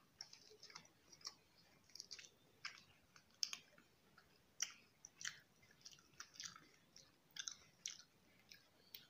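Faint chewing and biting on a toasted cheese paneer sandwich and french fries: many short, irregular clicks and crunches, several a second.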